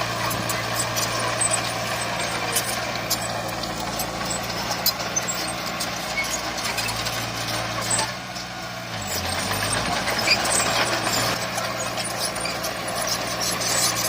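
Diesel engine of heavy earthmoving machinery running steadily, with scattered metallic clanks and knocks. A little past halfway the engine sound dips briefly and its pitch shifts, then it picks up again.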